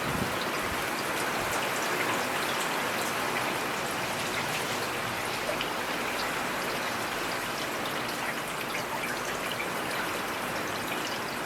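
Steady rain falling in a forest, an even hiss with many separate drops ticking here and there.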